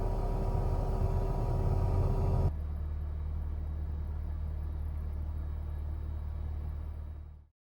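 Steady low engine and road rumble of a Toyota HiAce van, with a faint steady whine in the first shot. The sound cuts to a second, quieter stretch of the same kind of rumble about two and a half seconds in, then fades out near the end.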